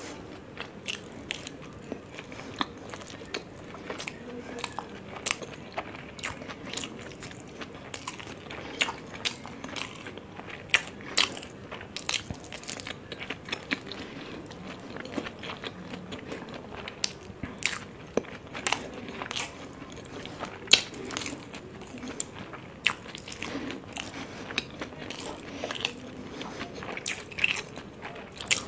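Close-miked chewing and biting of momos (dumplings), with frequent sharp, irregular mouth clicks.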